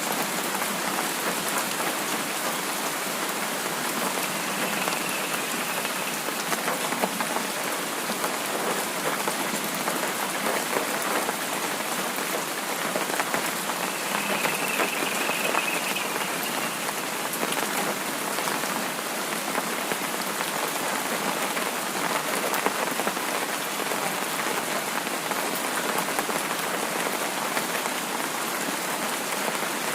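Steady rain falling on a surface: an even hiss of close-packed drops that holds at one level throughout.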